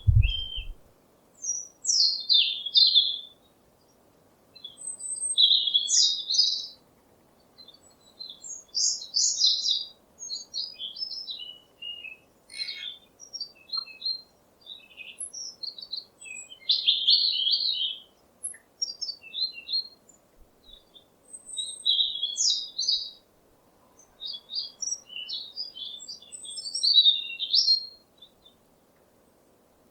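Birds chirping and singing in short, high, quick-changing phrases, each lasting a second or two, with short pauses between them.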